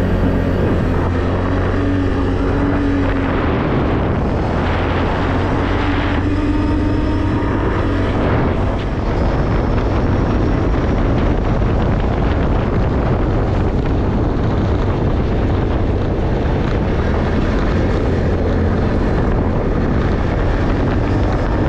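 Off-road vehicle driving on a dirt trail: steady engine drone under continuous road and tyre noise.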